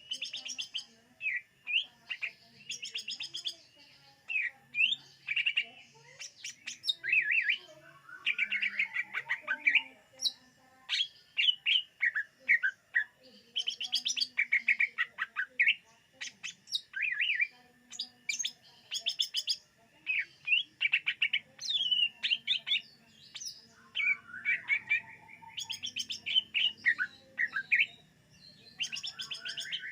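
Cucak ijo (green leafbird) singing a fast, varied song of chirps, trills and short whistles in a string of phrases with brief pauses between them.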